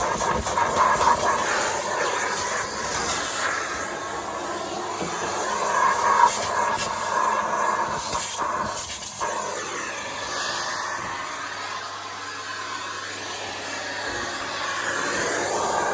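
Miele C3 vacuum cleaner running, a steady suction hiss whose loudness rises and falls as the nozzle is worked through the fluff.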